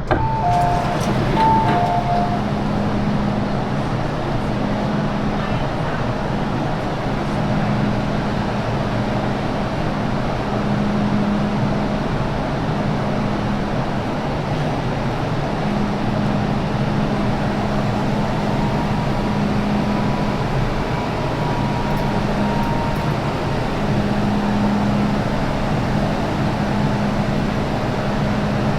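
MTR Island Line M-train running, heard from on board: a steady rumble of wheels and motors with a low hum. A short two-note electronic chime sounds right at the start.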